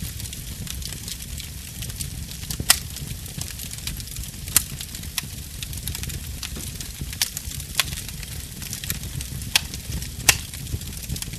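Wood fire burning in a fireplace: a steady low rumble of flames under constant light crackling, with several sharp, louder pops scattered through.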